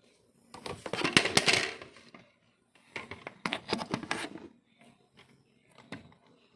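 Scratching at dry, flaky skin on a leg, two bouts of raspy, crackly scraping with flakes lifting off, then a few faint ticks near the end.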